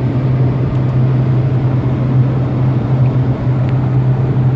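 Steady low hum over road and wind noise inside the cabin of a 2019 Proton Persona at highway speed, about 140 km/h. The driver finds this humming intrusive and puts it down to the sedan body resonating like a drum.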